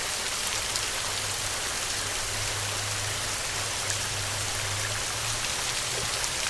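Steady rain, a dense even hiss with scattered drop ticks.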